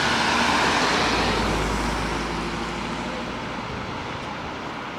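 Fire truck driving past, its engine and tyre noise loudest in the first second or two with a low rumble, then fading steadily as it moves away.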